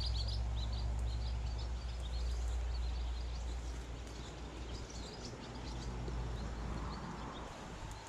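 Small birds chirping in quick, high, repeated calls, thickest in the first few seconds, over a steady low rumble that fades away at about seven seconds.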